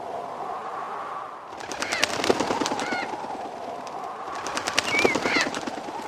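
Bird sounds over a steady outdoor ambience: two bursts of fast rattling clicks, each about a second long, the first about one and a half seconds in and the second near the end, with short chirps among them.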